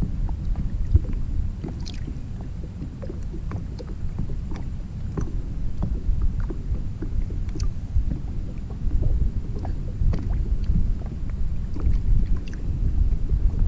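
Wind buffeting the microphone, a steady low rumble that swells and eases, with scattered faint light ticks and taps over it.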